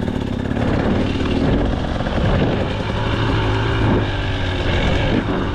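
2025 KTM 300 XC two-stroke dirt bike engine running while riding, its pitch rising and falling a little with the throttle.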